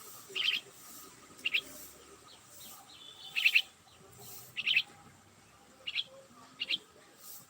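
A small bird chirping: about six short, high chirps spaced a second or so apart, each a quick double note.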